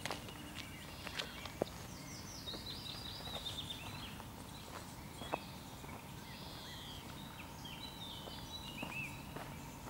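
Several birds singing, one giving a run of quick descending notes about two to three seconds in, with scattered sharp clicks over a steady low background rumble.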